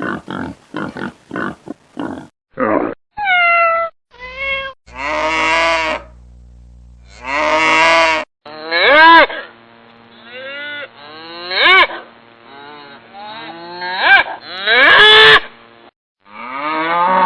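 A series of farm animal sounds: quick short grunts in the first two seconds, then about a dozen separate drawn-out calls, many bending up and then down in pitch.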